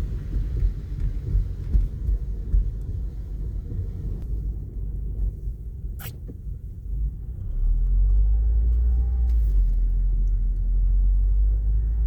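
Car driving, with a steady low road rumble that grows louder about seven and a half seconds in, and one brief sharp sound about six seconds in.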